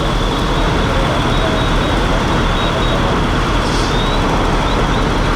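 Fire apparatus engines running in a steady loud rumble, with a thin high whine held throughout that briefly rises near the end.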